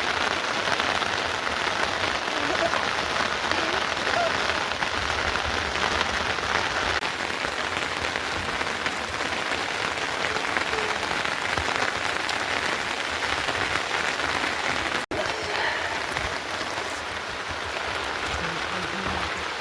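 Steady rain falling, an even hiss that runs on without pause; it dips briefly at a cut about 15 seconds in and carries on slightly quieter.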